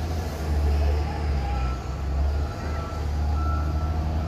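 Heavy vehicle's engine running with a steady low rumble, and a reversing alarm starting to beep about a second and a half in, in short repeated beeps.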